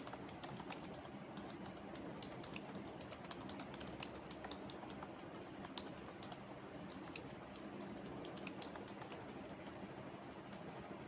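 Computer keyboard typing: irregular runs of quick keystrokes that pause near the end, with one last stroke. Underneath is a steady low hum.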